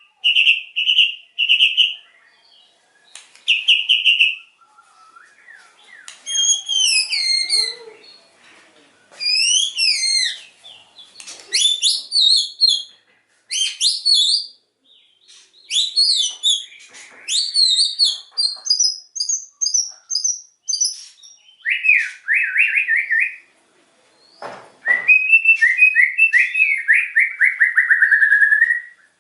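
White-rumped shama (murai batu) singing loud, varied whistled phrases in short bursts with brief pauses between. Near the end comes a long, rapid trill that slowly falls in pitch.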